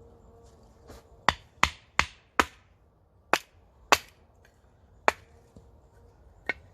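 Wood being chopped: eight sharp, cracking blows. The first four come in quick succession, about three a second, and the rest are spaced a second or so apart.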